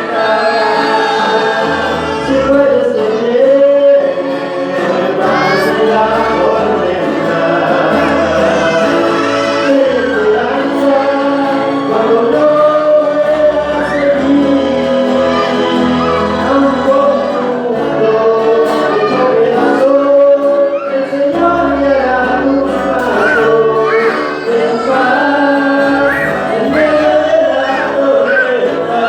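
A choir singing a Spanish-language Christian song, with loud, unbroken singing.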